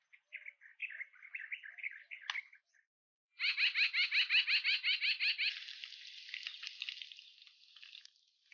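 Songbirds singing: a run of short chirps, then after a brief pause a loud, fast trill of about ten repeated notes a second lasting some two seconds, which fades into softer chirping.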